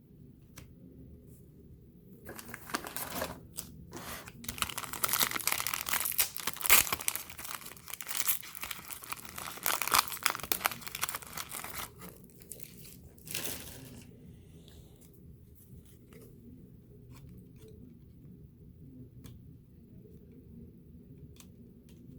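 Trading-card pack wrapper being torn open and crinkled in the hands: a loud crackling tearing from about two seconds in until about fourteen seconds in, then quieter handling with a few faint clicks as the cards come out.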